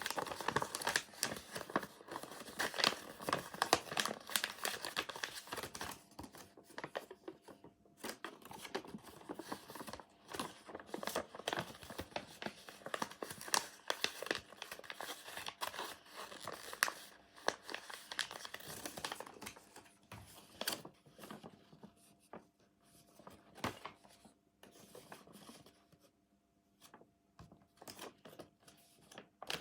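A sheet of paper being folded and creased by hand, crinkling and crackling in quick irregular bursts, busy at first and thinning out in the last third.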